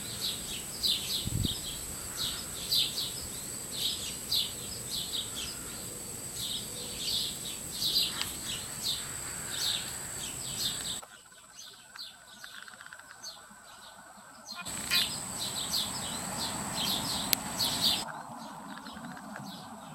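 Small bird chirping over and over, short high chirps about two a second. A steady high tone runs behind them. The chirping drops away for a few seconds past the middle, returns, and stops again near the end.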